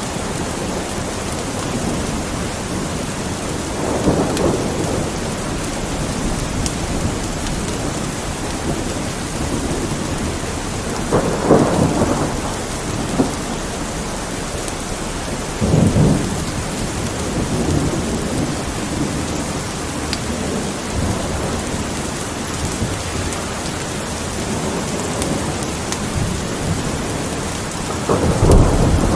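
Steady rain with thunder rolling in several times: louder swells about 4, 12 and 16 seconds in, and a heavy low rumble building near the end. Faint crackles of a fireplace are scattered through it.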